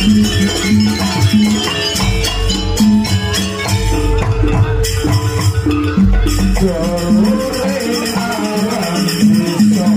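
Live jaranan music: a gamelan-style ensemble of drums and tuned metal percussion playing a repeating pattern, with a melody line over it.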